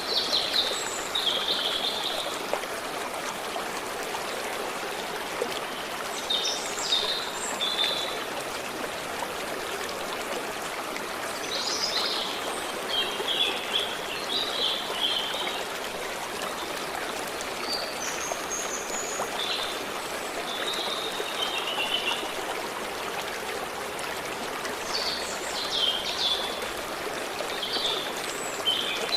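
Stream water running and babbling steadily, with small birds singing short chirping phrases every few seconds.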